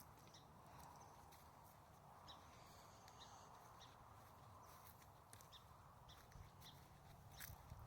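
Near silence: faint outdoor ambience with scattered faint ticks and a few faint high bird chirps.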